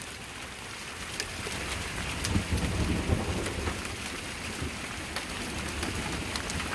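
Heavy rain pouring steadily in a thunderstorm, with scattered sharp drop taps and a low rumble of thunder swelling about two seconds in.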